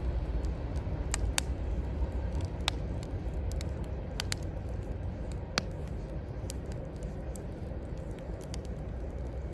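Wood fire crackling, with scattered sharp pops, the loudest about five and a half seconds in, over a steady low rumble of city traffic.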